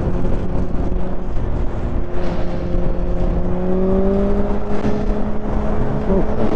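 Motorcycle engine pulling at highway speed, its pitch rising slowly and steadily as the bike gains speed, under a constant rush of wind noise on the helmet-mounted microphone.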